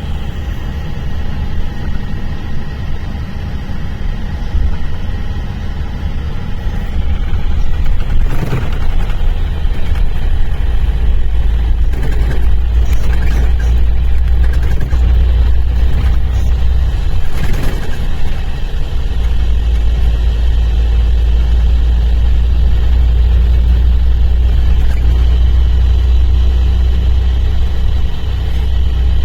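Mercedes-Benz O-500RSD bus's diesel engine running with a deep, steady rumble that grows louder about eight seconds in and stays loud, with a few brief knocks in between.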